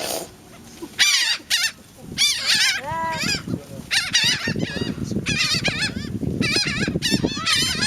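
A flock of gulls calling, many wavering cries in quick bursts that overlap one another, with a low rough noise underneath in the second half.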